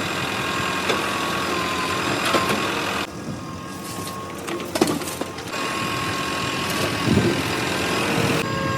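Diesel engine of a backhoe loader and tractors running at a work site, with a steady high tone over it. The sound drops off for a couple of seconds about three seconds in, with a few knocks around five seconds.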